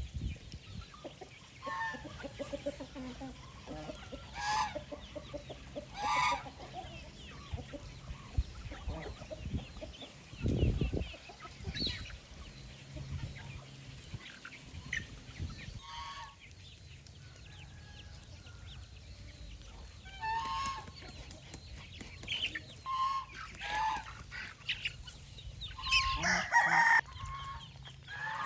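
Free-range chickens clucking and calling, scattered short calls that grow busier and louder near the end. A low rumble lasting about a second comes around the middle.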